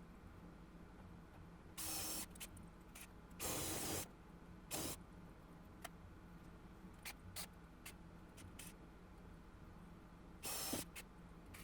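Four short hissing bursts, each about half a second long, from a drill boring out spot welds in a steel car body panel, with light clicks between them.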